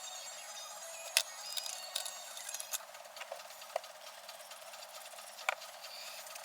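A few light, irregular clicks and taps of small hard objects over a faint steady hiss, the loudest about a second in and again near the end.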